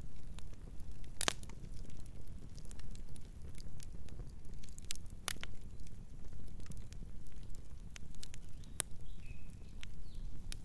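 Wood fire crackling: irregular sharp pops and snaps over a low, steady rumble of burning, with a few louder pops. A faint bird chirp sounds near the end.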